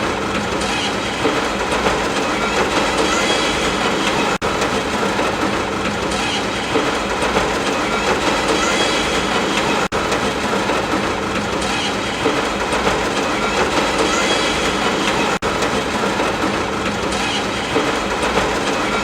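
Steady, dense rain ambience, a short recording looped with a brief dropout about every five and a half seconds.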